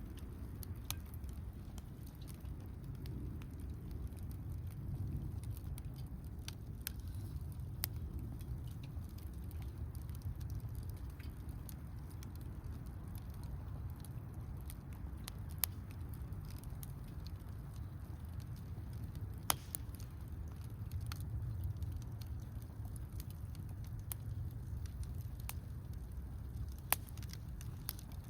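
Wood campfire crackling, with scattered sharp pops, a few of them louder snaps, over a steady low rumble.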